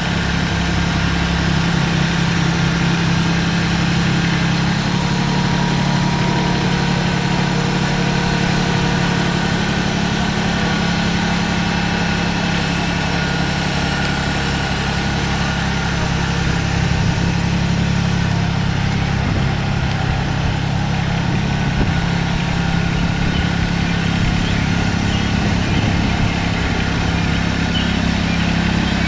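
Tractor engine running steadily, with an even low hum that barely changes.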